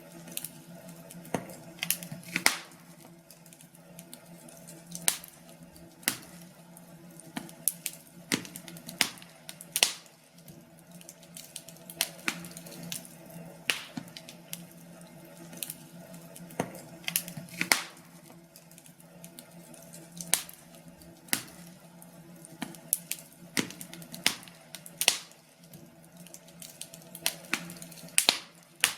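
Wood fire crackling in a fireplace: irregular sharp pops and snaps, about one or two a second, over a low steady hum.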